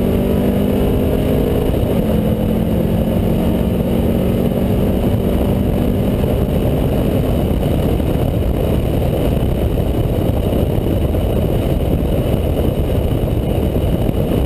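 The VW Beetle drag car's engine running at a steady pitch down the strip, with a brief break about two seconds in. About seven seconds in the engine note fades into a steady low rush of wind and road noise on the car-mounted microphone.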